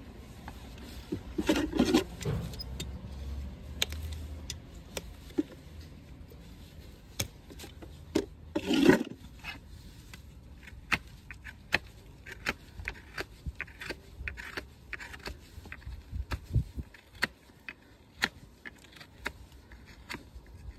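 Hoof-trimming tools working on a Shire horse's hoof: a run of short clicks and taps, with two louder scraping passes, about two seconds in and again about nine seconds in.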